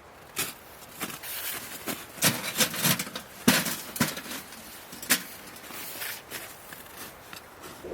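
Irregular knocks, clicks and rustling of hands handling things, busiest in the middle and thinning out toward the end.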